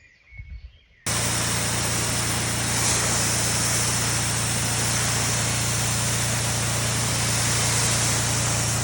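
Petrol pressure washer (Alpha A4 21/200) running steadily under load, its engine hum mixed with a loud, even hiss of high-pressure water spray; it cuts in suddenly about a second in.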